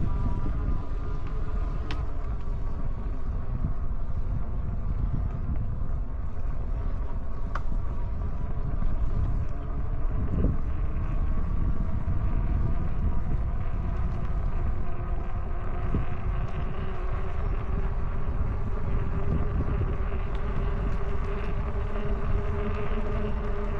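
Electric bike's hub motor whining steadily with wind buffeting the microphone while riding. The whine grows stronger near the end.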